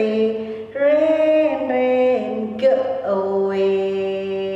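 Singing voice carrying a melody in held notes that step from pitch to pitch, ending on one long note held for about two seconds.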